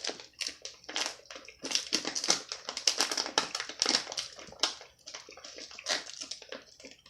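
Close-miked chewing of gummy worm candy: a dense run of irregular wet mouth clicks and smacks.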